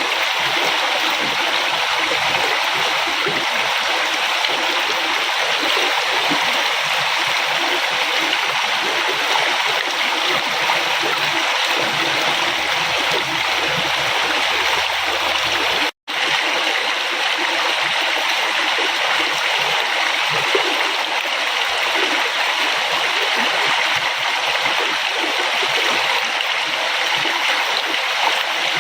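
River water flowing steadily: a constant rushing, babbling wash. It cuts out for an instant about halfway through, then carries on unchanged.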